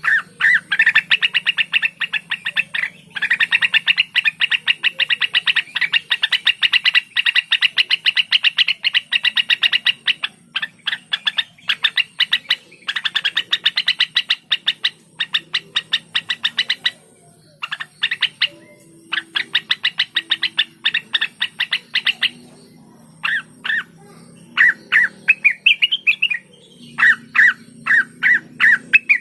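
Cucak wilis (leafbird) singing a rapid, chattering song of very fast repeated sharp, high notes, in long unbroken runs with short pauses, becoming more broken into short phrases after about 22 seconds.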